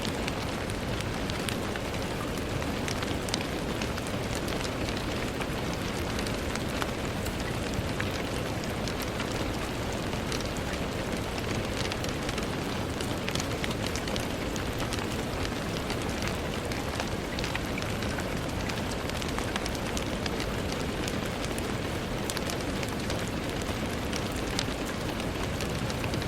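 Steady rain pattering on a window pane, a continuous hiss scattered with many small, sharp drop ticks.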